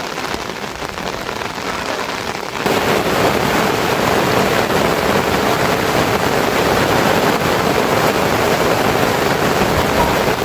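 Steady rain falling, an even hiss across the whole range. A few seconds in, it suddenly gets louder and fuller, then holds steady.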